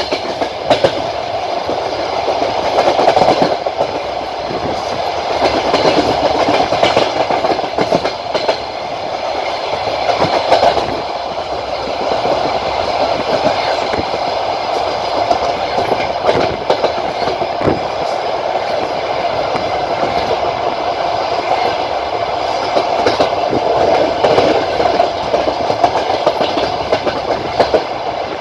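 Passenger train running along the line, heard from aboard: a steady rumble of steel wheels on the rails, with scattered sharp clicks and knocks as the wheels pass over rail joints.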